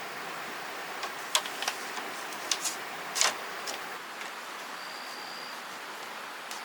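Steady background hiss with a handful of sharp light clicks or taps in the first half, and a brief thin high tone about five seconds in.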